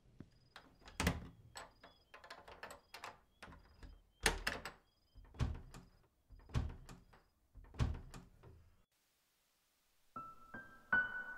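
Slow footsteps: a heavy thud about every second with lighter clicks and scuffs between, five strong steps in all. They stop, and after a second of silence piano music begins near the end.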